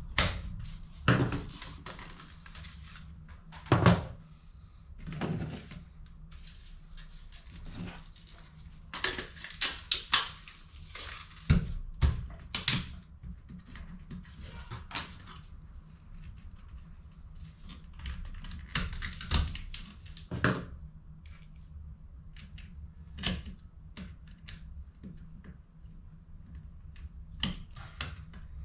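Irregular plastic clicks, taps and knocks of HP CE285A toner cartridges being handled and worked on by hand, over a steady low hum.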